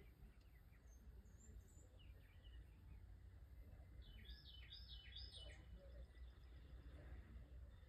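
Near silence with faint outdoor ambience and a low steady rumble; a bird chirps faintly a few times, with three quick chirps in a row about halfway through.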